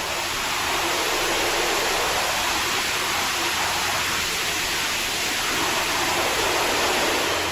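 A steady, even rushing noise with no pitch, mostly in the upper range, fading out near the end.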